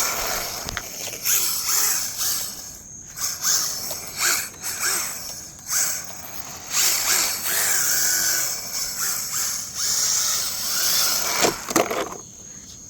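Battery-electric RC rally car on hard drift tyres driven in repeated throttle bursts, its motor whining up and down in pitch as the tyres spin and slide on the smooth ground. Near the end comes a short clatter, as the unclipped body shell flies off.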